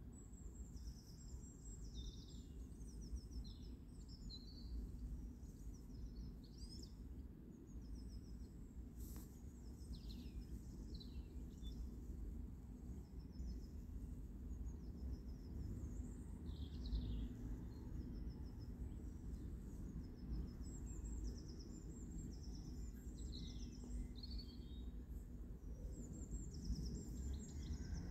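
Small birds singing in the background, many short chirps and quick trills throughout, over a steady low rumble, with a single sharp click about nine seconds in.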